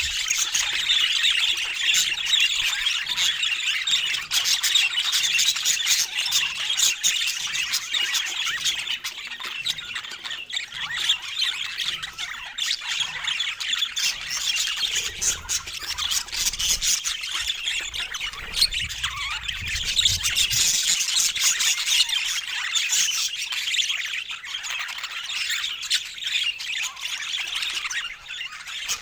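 Pet budgies chattering and warbling continuously in a dense run of short calls, with scattered sharp clicks among them.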